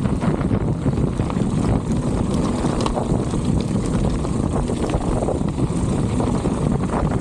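Strong wind buffeting the microphone during a bicycle ride: a steady, loud low rumble with scattered faint ticks.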